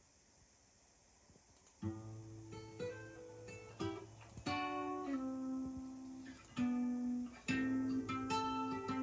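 After about two seconds of near silence, the acoustic guitar intro of a song starts playing through Bang & Olufsen Beovox S45-2 loudspeakers: plucked and strummed chords ringing out, a new chord roughly every second.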